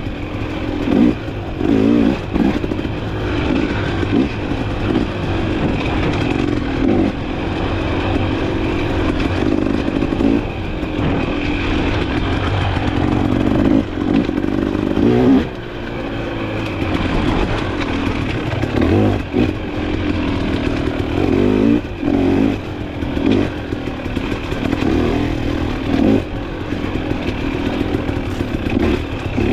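Off-road dirt bike engine ridden on a trail, revving up and dropping off again and again with the throttle, along with clatter from the bike. The throttle closes briefly about fifteen seconds in.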